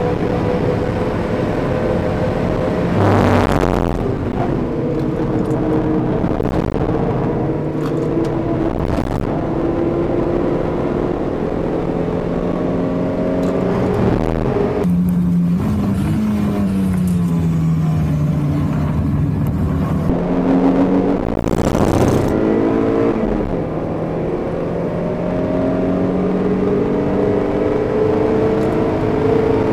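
Toyota MR2 Spyder's 1ZZ-FE 1.8-litre four-cylinder engine heard from inside the cabin at full track pace. The engine note repeatedly climbs and steps down, falls for a long stretch about halfway through, and two short bursts of noise cut across it, about three seconds in and near three quarters through.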